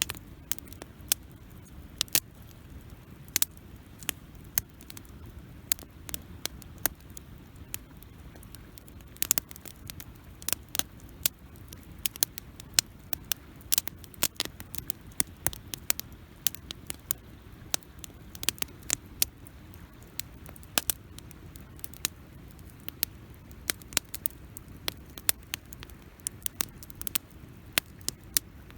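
Wood campfire crackling: irregular sharp snaps and pops, several a second, over a low steady rumble.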